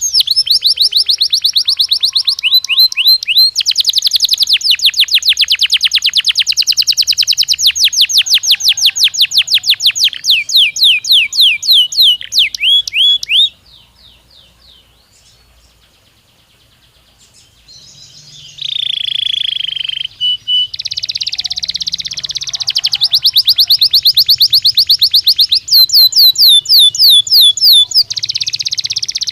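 A Belgian canary singing in long, fast trills of repeated rising notes. About halfway through it pauses for a few seconds, then resumes with a lower buzzy note and more rapid trills.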